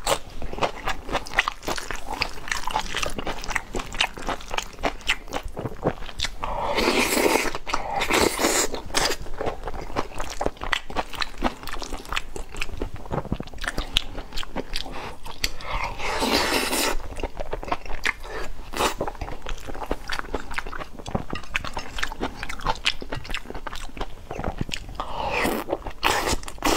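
A person chewing and biting food close to a clip-on microphone: wet mouth clicks and crunching, with a few louder rushing bursts of about a second each.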